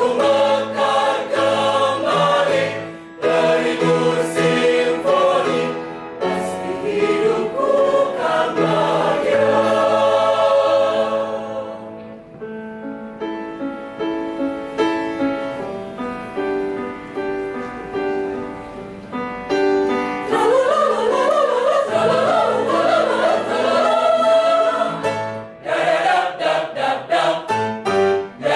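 A choir singing. A softer passage of short repeated notes in the middle gives way to a louder, fuller swell about two-thirds of the way through, with shorter, more clipped notes near the end.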